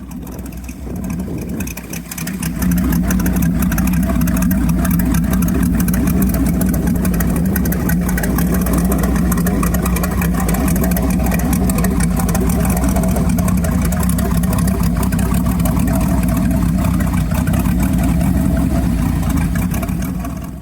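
LS-based V8 engine running steadily, stepping up to a louder, fuller note about two and a half seconds in and holding it until it fades out at the end.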